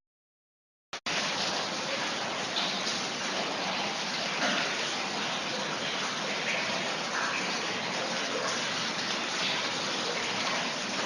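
Steady rush of rainwater pouring down. It starts about a second in, just after a single click.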